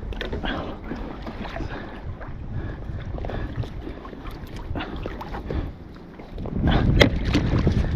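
Wind buffeting the microphone on a kayak, with scattered small knocks and clicks. The wind gets louder about six seconds in, and there is one sharp knock about seven seconds in.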